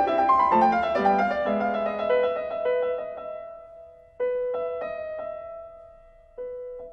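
Background piano music: a flowing run of notes that fades out, then a struck chord about four seconds in and another near the end, each left to ring and die away.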